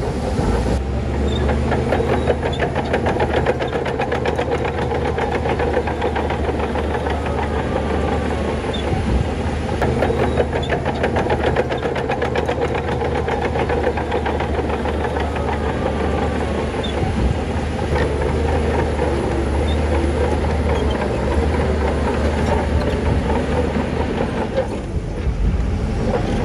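Shantui crawler bulldozer's diesel engine running steadily, with a rapid continuous clatter of its steel tracks.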